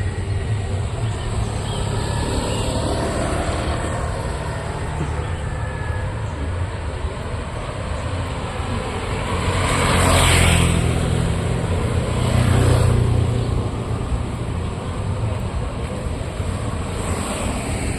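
Road traffic with a steady rumble, as vehicles pass close by: one swells up and fades about ten seconds in, and another a couple of seconds later.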